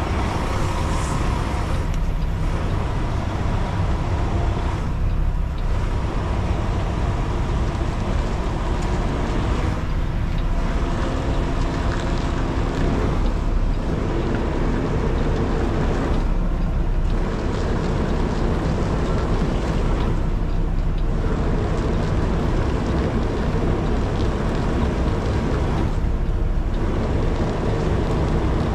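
Kenworth T680 semi truck's diesel engine running at low speed while manoeuvring, a steady deep rumble, its higher part dropping away briefly every few seconds.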